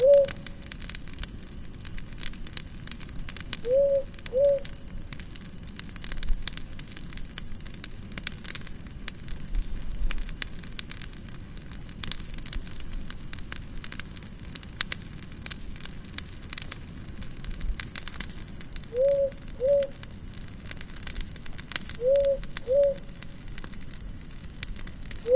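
Campfire crackling and popping throughout. A low two-note call sounds several times, and a short high-pitched trill of about eight quick notes comes in the middle.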